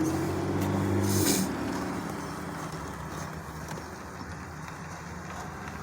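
Motor vehicle engine humming steadily, cutting off about a second in with a short hiss, then a quieter steady rumble of traffic.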